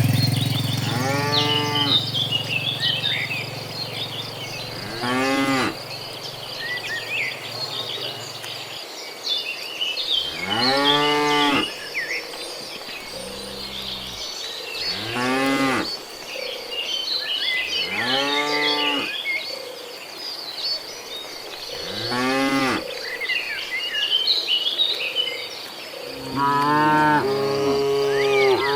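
Cattle mooing over and over, about eight long calls a few seconds apart, each rising and then falling in pitch, with one lower, deeper moo in the middle. Insects chirp steadily behind them.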